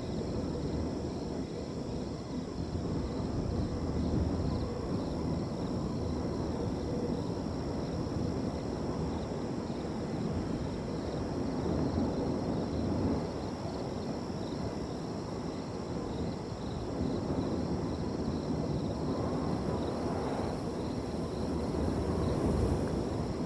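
Wind blowing with a low rushing noise that rises and falls slightly, over crickets trilling steadily.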